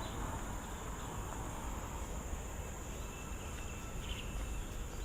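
Steady, high-pitched drone of forest insects, with a low rumble beneath and a few faint short chirps near the end.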